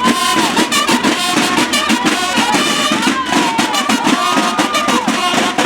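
Parade band music with fast, dense drumming and pitched instruments over it.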